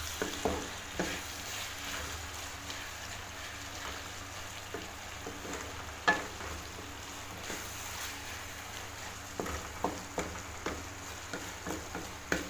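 Potato, onion and tomato masala sizzling gently in a metal pan, with a spatula scraping and knocking against the pan now and then: a few strokes near the start, a sharp knock about six seconds in, and a run of them near the end.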